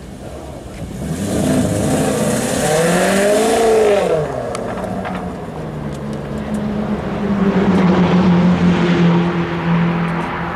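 Maserati Quattroporte Sport GTS's V8 exhaust: the engine note climbs in pitch and falls back between about one and four seconds in, then holds a steadier note that swells louder again near the end.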